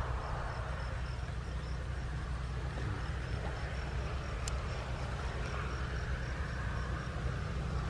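Outdoor field ambience: a steady low rumble, with a thin high call repeating about four to five times a second throughout and one short click about halfway.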